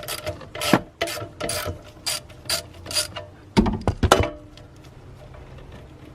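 Ratchet wrench loosening the 10mm bolt that holds the ECU: a run of quick ratcheting clicks, then a couple of louder knocks about three and a half seconds in as the part is handled.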